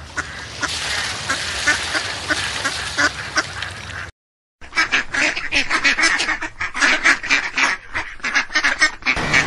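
Ducks quacking, many short calls overlapping, in two stretches broken by a half-second silence about four seconds in.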